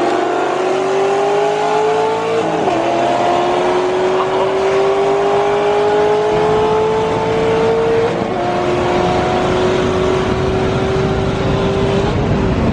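Car engine at full throttle, pulling hard through the gears: its pitch climbs steadily in each gear and drops sharply at three upshifts, about two seconds in, about eight seconds in and near the end.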